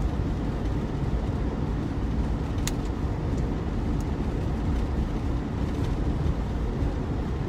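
Steady road and engine noise inside a car's cabin, driving at about 40 mph on a snow-covered road. A couple of brief faint clicks come about a third and halfway through.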